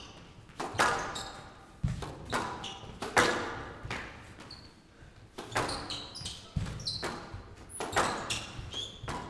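Squash rally: the ball cracking off rackets and the court walls about once a second, each hit echoing in the hall, with sneakers squeaking on the court floor between shots.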